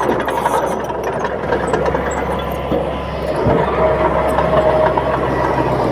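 Diesel engine of a Komatsu D31P crawler bulldozer running steadily.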